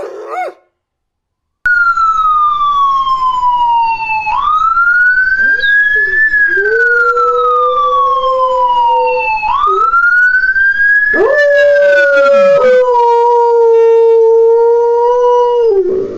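Ambulance siren wailing in slow sweeps, falling gradually and then rising quickly about every five seconds, with a dog howling along in a lower held tone. A short dog howl breaks off at the very start before a brief pause.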